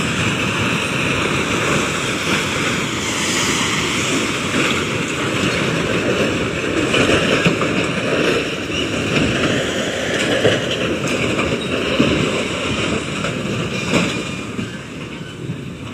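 A train running past: a steady rushing noise that fades over the last couple of seconds.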